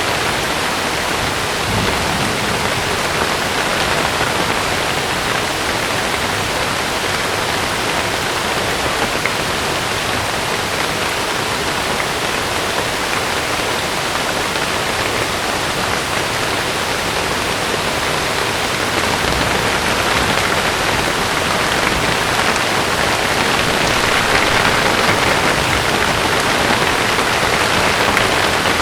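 Heavy rain falling on a camping tent: a steady, dense hiss of drops on the fabric, growing slightly louder in the last few seconds.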